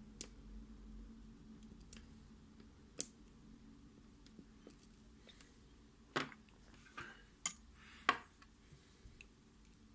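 Scattered small metallic clicks and clinks as a Mul-T-Lock MT5+ lock and its tools are handled, with a sharp click about three seconds in and a cluster of sharper clicks between about six and eight seconds.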